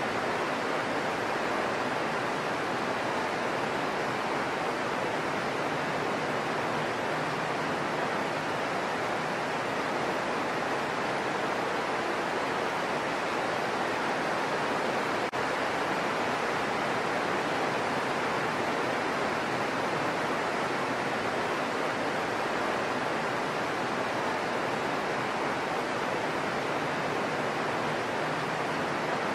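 Heavy rain falling steadily on foliage: a constant, even hiss with no thunder or let-up.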